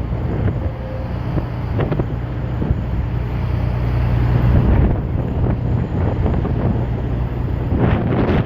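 Wind buffeting the microphone, a steady low rumble that swells slightly about halfway through.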